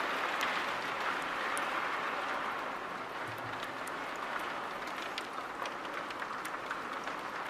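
Heavy rain pouring down steadily, a dense hiss with scattered sharp drips and splashes.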